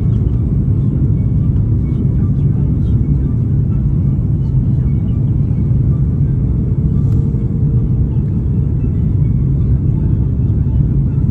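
Steady low cabin rumble of an Airbus A330-300 airliner in flight, heard from inside the passenger cabin.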